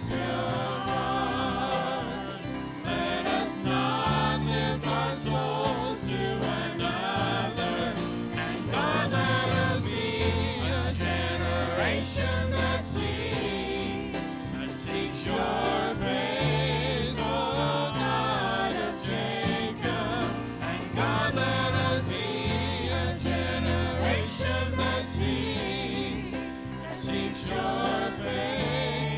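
Worship music: a group of voices singing over instrumental accompaniment, with held bass notes and percussion.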